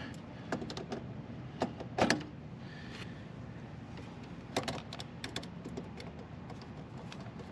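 Scattered sharp clicks and light metallic taps of hand wiring work: wire connectors being handled and pushed onto the terminals of a replacement contactor in an air conditioner condenser's control panel, over a steady low background noise.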